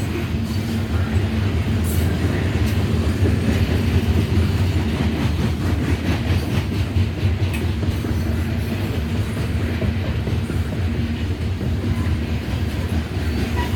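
Loaded Norfolk Southern coal train rolling past: a steady low rumble with a constant low hum and wheels clicking over the rails.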